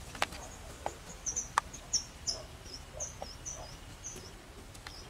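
A bird calling a quick run of short, high chirps, about three or four a second, starting about a second in and stopping around four seconds. A few sharp clicks sound in the first two seconds.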